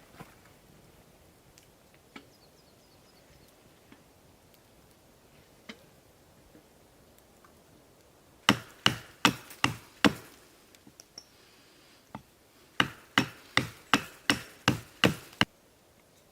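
Wood being chopped: two runs of quick, sharp strikes, about five and then about eight, roughly three a second, after a quiet stretch.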